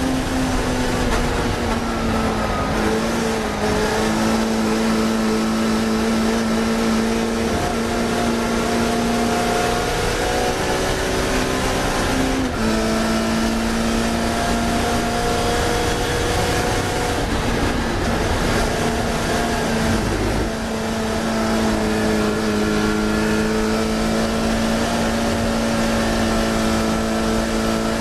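Classic Mini racing car's engine running hard at high revs, its pitch holding nearly level with small rises and falls, broken briefly twice around the middle.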